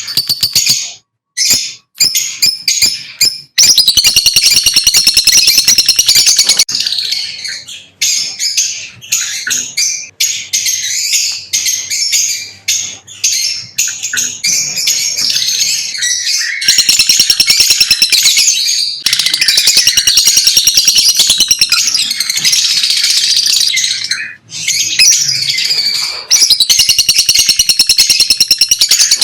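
Lovebirds chirping in dense, rapid, high-pitched runs, with a few short pauses.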